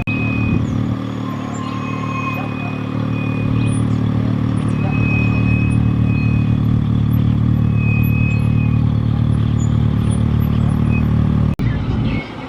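Farm tractor engine running hard under load, growing louder after about three seconds and holding steady, with a thin high whine coming and going over it; the sound breaks off suddenly near the end.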